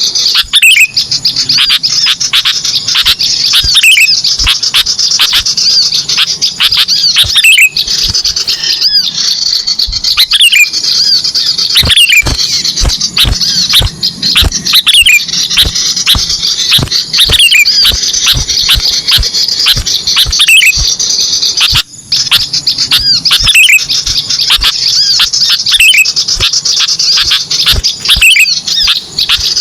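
Small-bird lure recording (MP3 pikat burcil) playing: dense, loud, high-pitched chirping and twittering of several small birds, with short downward-sliding call notes repeating every second or two and a brief gap about two-thirds of the way through.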